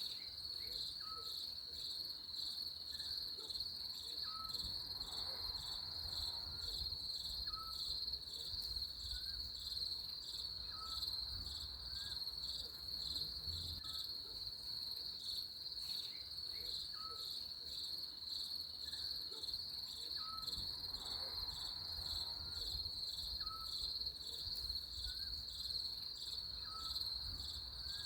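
Crickets trilling continuously in a high, steadily pulsing chorus, with a faint short chirp repeating about once a second beneath it.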